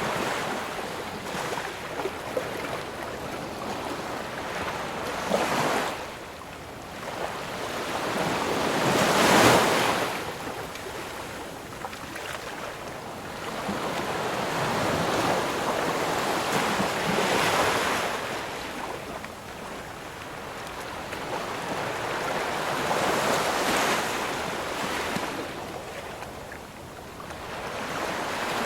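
Ocean waves breaking and washing on the shore, the surf swelling and ebbing in repeated surges, with the loudest break about nine seconds in.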